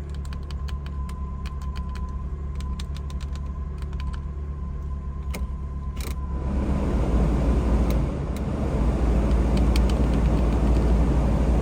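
BMW E36 engine idling with its MAF sensor unplugged and an air leak from a hole in the intake, a steady drone with sharp ticks over it. About six seconds in it turns louder and rougher.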